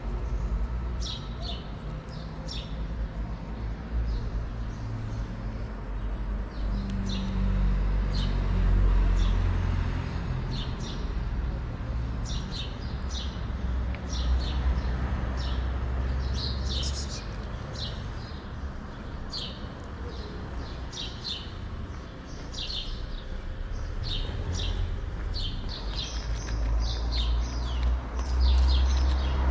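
Small birds chirping, many short high calls one after another, over a steady low rumble.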